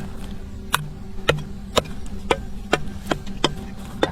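A series of sharp knocks, about two a second and slightly irregular, like repeated chopping or striking, over a steady low hum.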